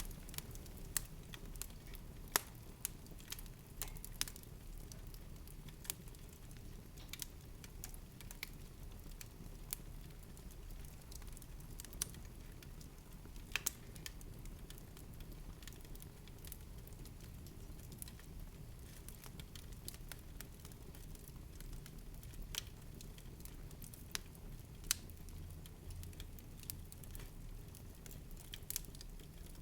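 Irregular soft crackles and clicks, scattered unevenly, over a steady low rumble.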